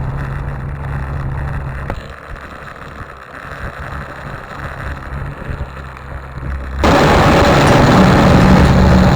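Dirt bike engine running. After an abrupt change about two seconds in it is quieter for a few seconds, then it gets suddenly much louder about seven seconds in.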